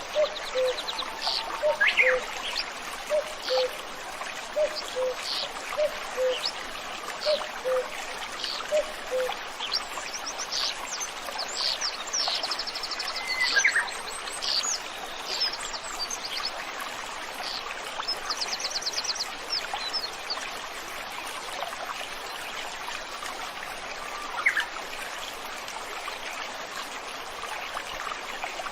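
Small stream flowing steadily, with several birds calling over it: a low note repeated about once a second for the first nine seconds, sharp high chirps and a couple of short rapid trills. The calls thin out after about twenty seconds, leaving mostly the running water.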